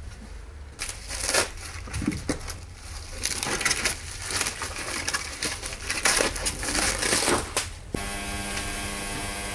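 Irregular crackling and clattering, like parts or material being handled and crushed. About eight seconds in it cuts off and a steady electric motor hum starts suddenly.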